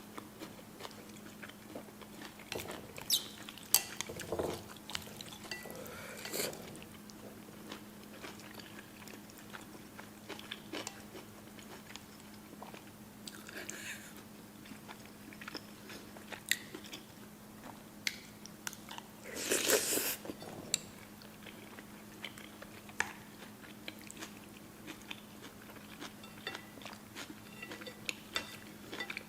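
Close-miked eating of spicy noodles with beef: chewing and mouth sounds with scattered sharp clicks, and a louder noisy stretch of about a second around two-thirds of the way through. A faint steady hum runs underneath.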